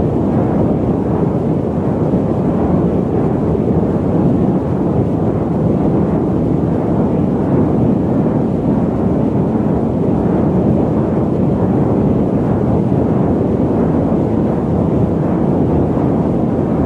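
Loud, steady static noise: an unbroken rumbling hiss with most of its weight low and little treble, never changing.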